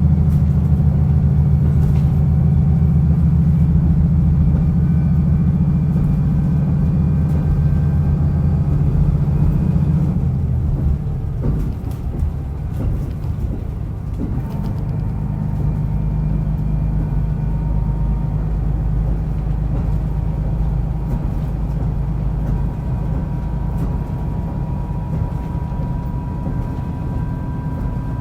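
Diesel railcar running on the line, heard from on board: the engine pulls hard for about the first ten seconds, then eases off and the train runs on with the rumble of wheels on rail and a few knocks over joints.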